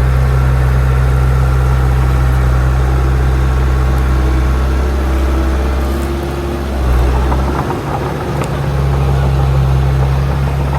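Heavy diesel engine of earth-moving machinery running steadily at a low, even note. About seven seconds in, the engine note dips and wavers briefly, then settles back to steady running.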